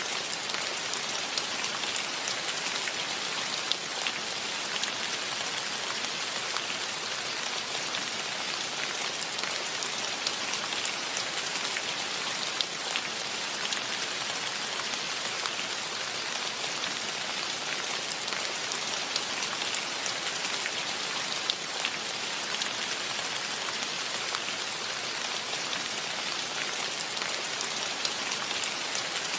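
Steady rain: an even hiss with many individual drops ticking close by.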